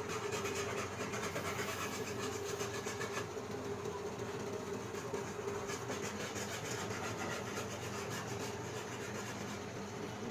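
Steady mechanical hum with repeated scraping over it, typical of metal parts being worked by hand on a workbench while a machine runs nearby.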